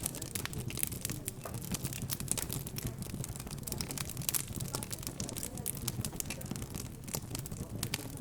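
Fireplace fire crackling, with many irregular sharp pops, over a low murmur of background chatter.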